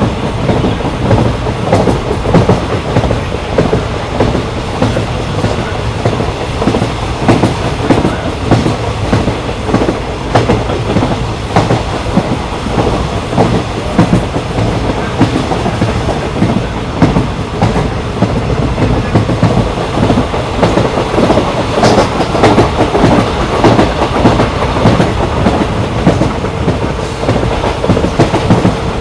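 Train running along the rails: a steady rumble with the repeated clickety-clack of wheels over rail joints.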